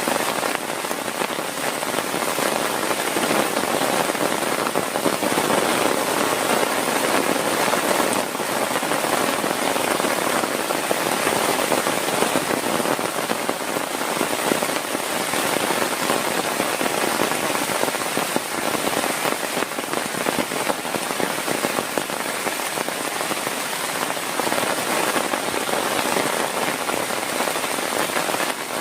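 Heavy rain falling steadily, a dense, even patter of countless drops hitting a surface close by.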